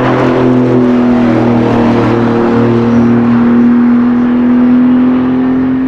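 Sports car engine running hard at high revs. Its pitch steps a few times in the first couple of seconds, then holds steady and loud.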